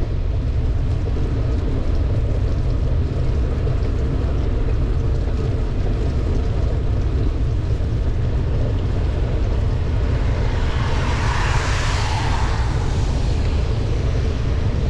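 Wind buffeting the microphone of a bicycle-mounted camera, a heavy steady low rumble, with a hiss of rain and wet tyres on the road over it. About eleven seconds in, a hissing swell rises for roughly two seconds and fades.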